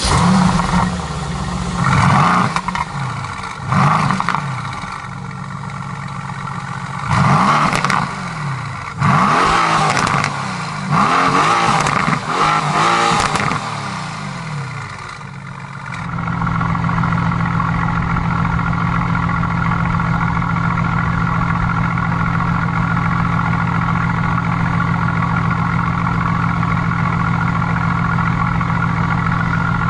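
Mercedes-AMG GT S's 4.0-litre twin-turbo V8 and its exhaust, revved repeatedly, the pitch rising and falling with each rev. About halfway through it changes to a steady, even running note.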